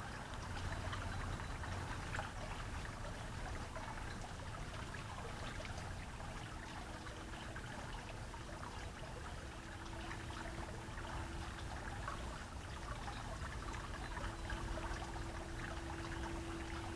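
Steady trickling, running water. A faint steady hum joins it about six seconds in.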